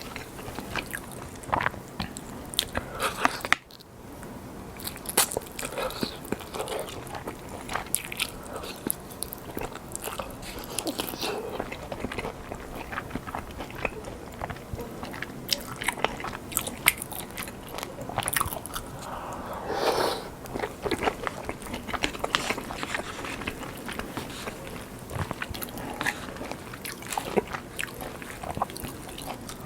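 Close-miked eating sounds: crunching bites and chewing of battered fried prawns and sushi, with a run of crisp irregular crackles throughout.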